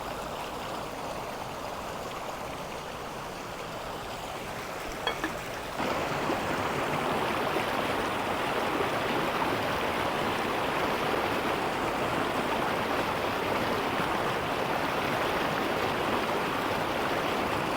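River water rushing steadily, an even rushing noise that gets louder about six seconds in and then stays level.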